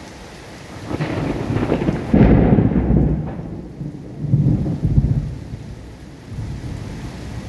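A rolling thunder rumble over steady rain: it builds about a second in, is loudest around two seconds in, swells again near five seconds, then dies away.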